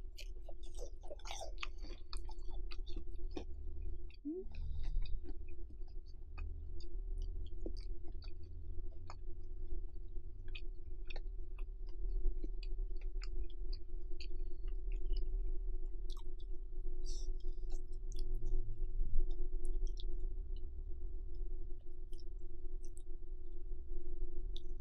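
A person chewing spicy stir-fried instant noodles close to the microphone, with many small wet mouth clicks throughout, over a steady low hum.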